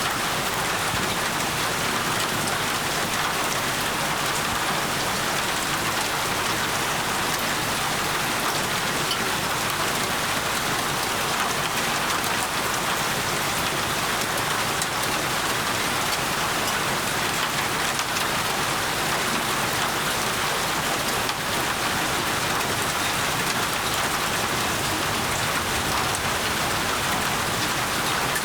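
Steady heavy rain falling, an even hiss with fine patter of drops on surfaces.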